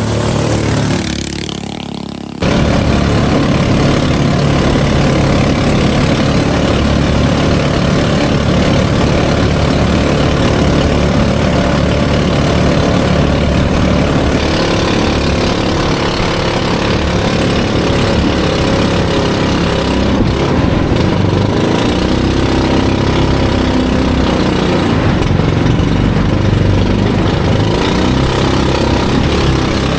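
Small 8.5 hp boat engine running steadily, a continuous drone with a rushing hiss over it. The first two seconds are quieter and end abruptly, after which the engine sound stays level.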